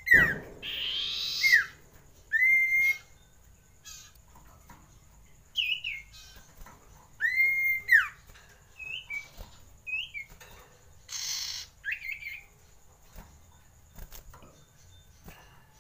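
Common iora giving a few arched whistles that rise and fall, along with short chirps. Bursts of wing flapping come about a second in and again past the middle as the bird flutters in its cage.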